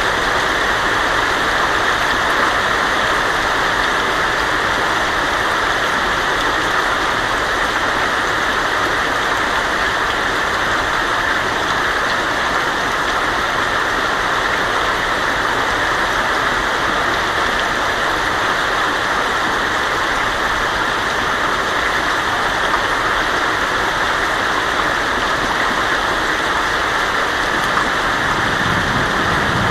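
Heavy rain on a tin roof: a steady, dense hiss of drops. A low rumble of thunder starts near the end.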